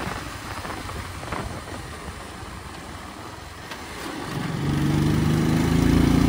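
Motorcycle engine heard from the rider's seat. It runs quietly under road and wind noise for about four seconds, then about four and a half seconds in its note grows loud and steady as the throttle opens.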